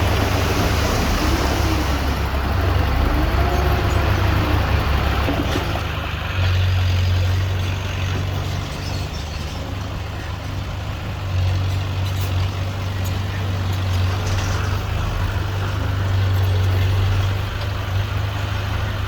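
Diesel engine of heavy earthmoving machinery running under work, a steady low drone that swells and eases a few times.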